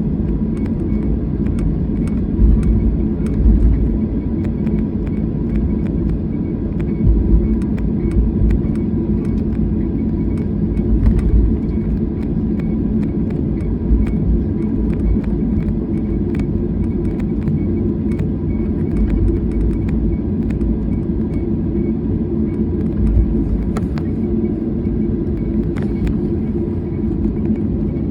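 Jet airliner cabin noise: a steady, loud low rumble of engines and airflow heard from inside the passenger cabin, with a faint steady hum and a few light clicks.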